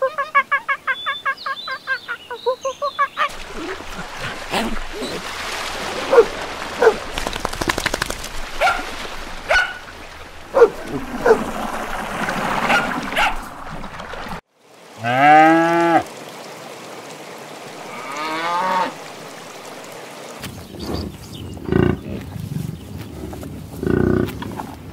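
A string of short animal calls: a rapid run of repeated high cries for the first few seconds, then scattered short calls over background noise, one loud falling call about fifteen seconds in, and lower calls near the end.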